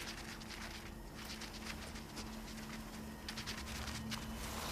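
Light, irregular pattering and rustling clicks of a small animal moving over the ground, over a low steady hum.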